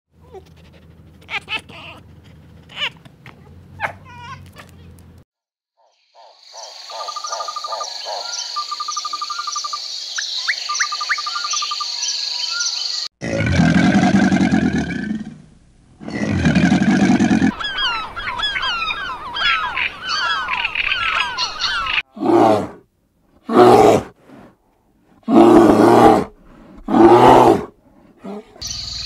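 A string of different wild animal sounds: faint clicks, then a long high pulsing call with trills, two loud low calls, a stretch of quick chirps, and five loud short calls near the end.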